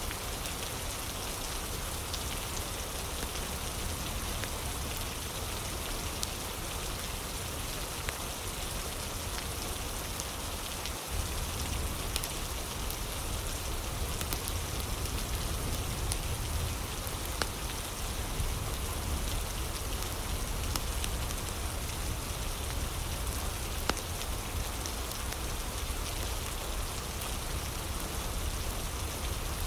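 Steady rain ambience with scattered sharp crackles of a fire mixed in. There is a brief dropout about eleven seconds in.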